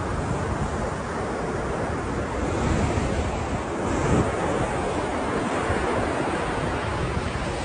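Ocean surf: waves breaking and washing in a continuous rush, with a low rumble, swelling slightly a few times, and some wind on the microphone.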